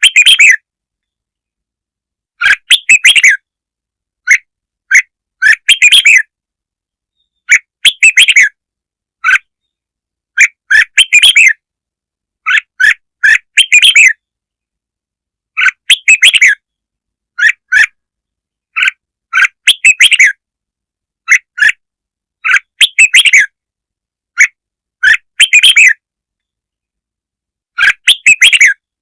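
Red-whiskered bulbul song: short, bright chirping phrases repeated every second or two. This is a call for rousing and luring other bulbuls.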